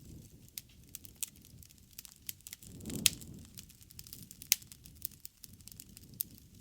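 Wood bonfire crackling: irregular sharp pops of burning wood, the loudest two about three seconds in and a second and a half later, over a low rumble of the flames that swells around the first of them.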